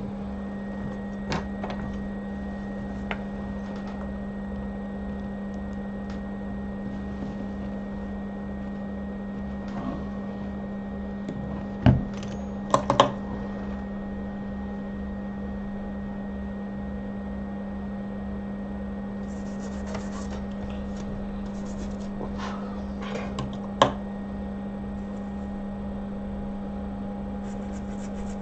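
Steady low electrical hum of running workbench equipment, broken by a few sharp clicks and taps of tools on the bench: a pair about twelve seconds in and one more near the end.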